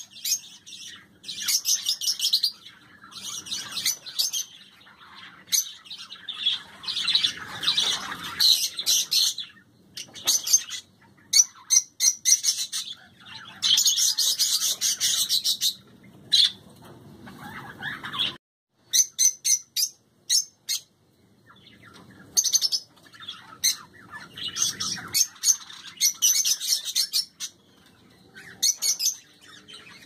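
Caged pet birds chirping and squawking in bursts of rapid, high calls a second or two long, with short pauses in between.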